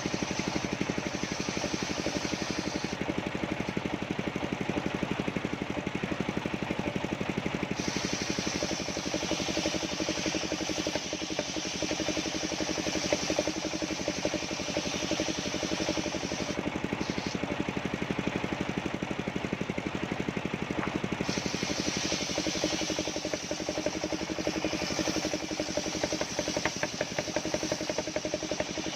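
Engine of a mobile sawmill running steadily at constant speed, with a higher hiss that drops away twice for a few seconds.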